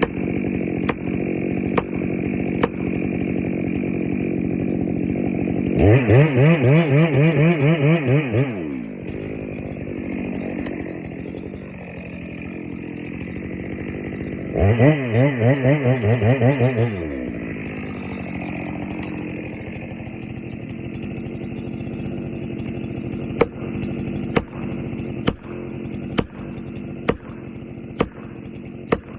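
Chainsaw running at a low steady speed, revved hard twice for about two to three seconds each, as in a cut, then dropping back to a low run. Near the end come sharp knocks, about one a second.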